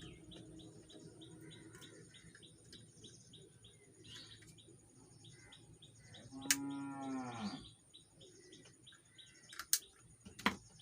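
A single drawn-out animal call, about a second long, bending down in pitch at its end, over faint bird chirps and a fast, steady ticking. Two sharp clicks near the end.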